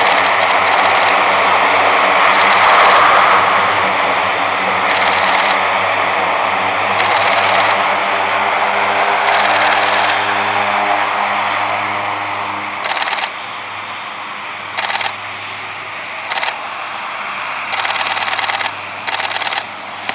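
Four-turboprop Blue Angels C-130J Super Hercules "Fat Albert" running at full power in a steady, loud drone, fading away in the second half as it moves off. Over it come about ten short bursts of rapid-fire camera shutter clicks.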